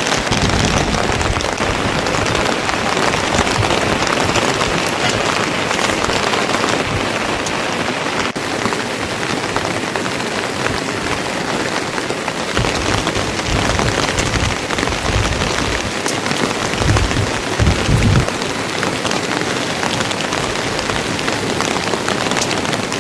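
Heavy rain falling steadily, a loud dense hiss, with a few brief low thumps about three-quarters of the way through.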